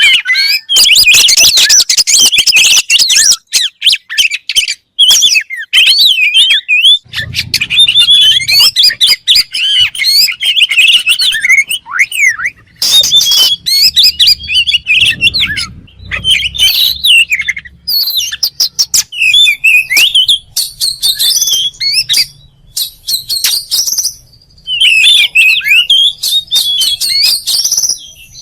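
Oriental magpie-robin (kacer) singing loudly in long runs of fast, varied, high-pitched whistles and chatters, broken by short pauses.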